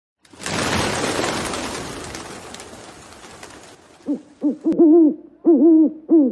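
A loud rushing hiss that fades away over about three seconds, then a series of short hooting animal calls, each rising and falling in pitch, coming in quick groups of two or three.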